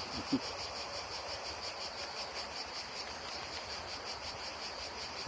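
Crickets chirping steadily in a fast, even pulse, with a brief short sound about a third of a second in.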